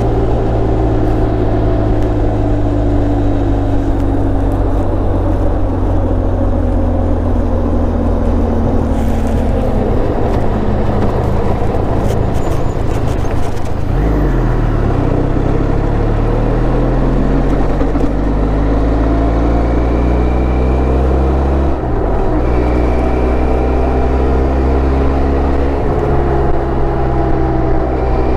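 Motorcycle engine running under way. About a third of the way in the revs fall, then climb again after a gear change, with another short shift a little later.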